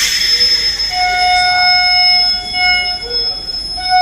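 Train at a railway platform: a burst of hissing at the start, then steady, loud squealing tones at several pitches together. The tones break off briefly about three seconds in and resume near the end.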